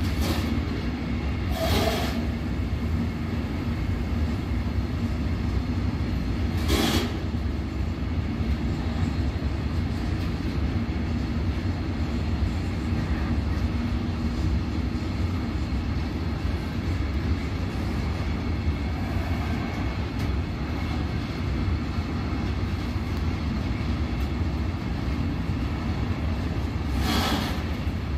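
Train rolling along the track with a steady low rumble, broken by a few sharp knocks.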